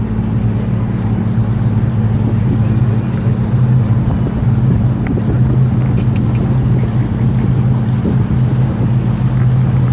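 Canal tour boat's engine running steadily on board, a low, even drone.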